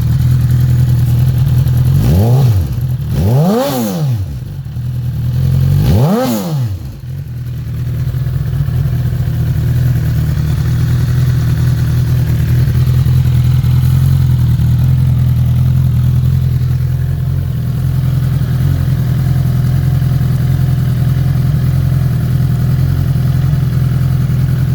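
Vehicle engine running just after a cold start: three brief revs a few seconds in, rising and falling in pitch, then a steady idle.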